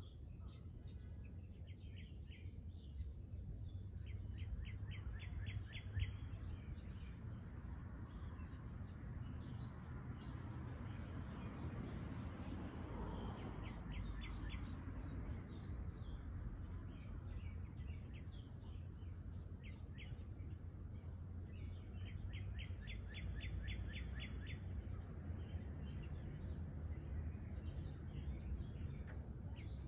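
Birds singing: a rapid trill of evenly spaced high notes comes back every several seconds, over a steady low rumble of background noise. A broad whoosh swells and fades in the middle.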